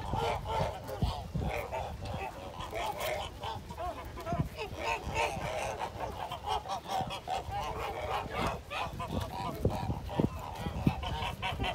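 A flock of birds calling together: many short, overlapping, pitched calls one after another with no break.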